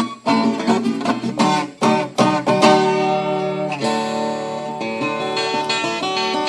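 Background music on acoustic guitar: quick strummed chords, then held notes left ringing from about four seconds in.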